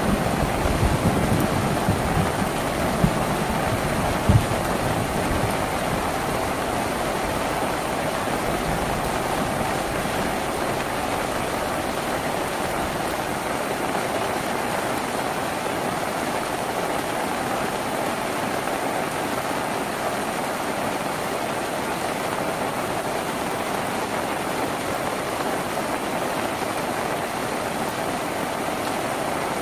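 Steady rain on a tin roof, an even hiss. A low thunder rumble fades away over the first few seconds, with a couple of sharp knocks in it.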